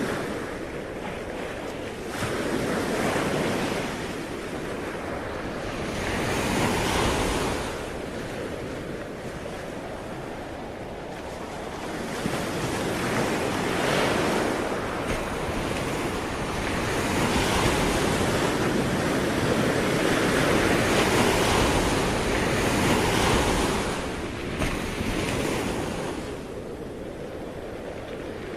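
Ocean waves breaking and washing on the shore, swelling and ebbing every few seconds, with some wind.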